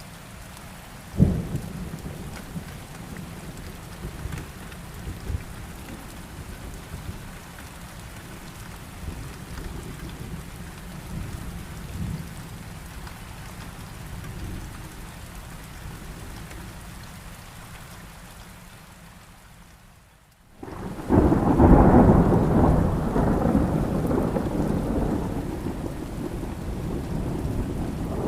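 Thunderstorm with steady rain: a sharp thunder crack about a second in, then, after a brief drop-out about two-thirds of the way through, a loud rolling rumble of thunder that slowly fades.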